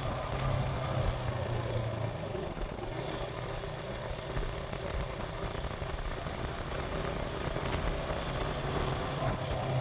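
Suzuki GN125 single-cylinder four-stroke engine running under way, over a steady rush of wind noise. The engine note eases off for a few seconds in the middle and picks up again near the end.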